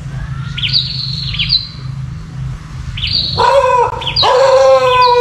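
Small birds chirping, a short high chirp about once a second, over a low steady hum. A bit past three seconds in, a louder long wavering whine comes twice and is the loudest thing.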